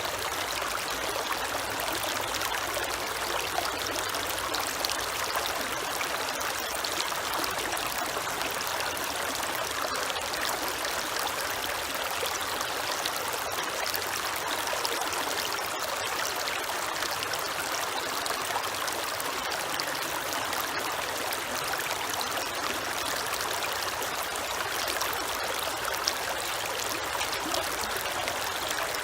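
A creek's water running and trickling steadily.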